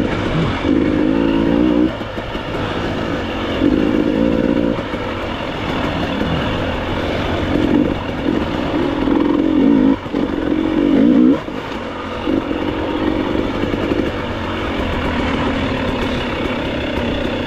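Enduro motorcycle engine revving in repeated bursts of throttle, about five surges a few seconds apart, dropping back to a lower rumble between them.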